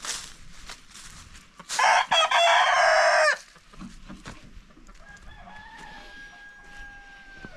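Rooster crowing loudly once, a crow of about a second and a half in the middle, followed by a fainter, long, steady call near the end.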